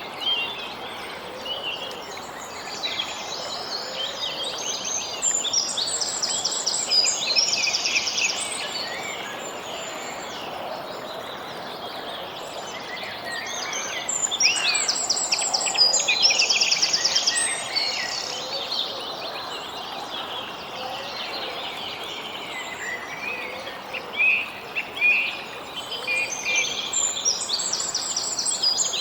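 Songbirds singing and chirping over a steady background hiss, with a rapid trilled song phrase coming back three times, about every ten seconds.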